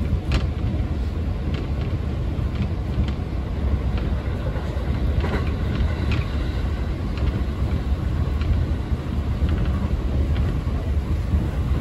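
Local electric train running along the line: a steady low rumble of wheels on rail, with occasional faint clicks.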